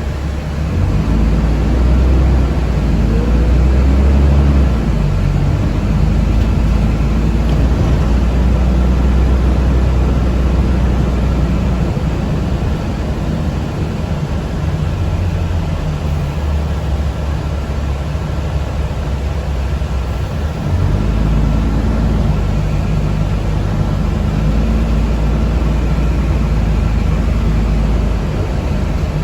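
Low rumble of a city transit vehicle on the move, heard from inside the passenger cabin, swelling about a second in and again about two-thirds of the way through, with a faint steady whine above it.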